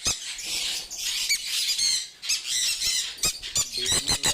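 Conures screeching, a rapid run of harsh overlapping calls with a few sharp clicks among them and a brief lull about halfway through.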